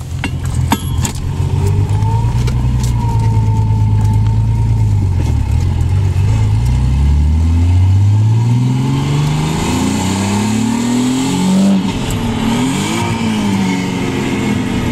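Nissan 300ZX (Z32) 3.0-litre V6 heard from inside the cabin, running steadily at first, then accelerating hard about six seconds in with the engine pitch climbing for several seconds. Near the twelve-second mark the pitch drops suddenly at a gear change, and it rises and falls again after.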